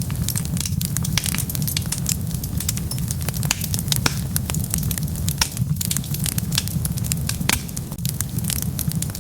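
Wood fire burning, with a steady low rumble of the flames and frequent sharp crackles and pops of the burning wood, several a second.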